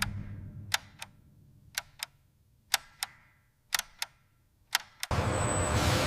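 Sharp paired clicks, a tick-tock about once a second, repeated five times. Just after five seconds a loud, steady rumbling noise cuts in suddenly.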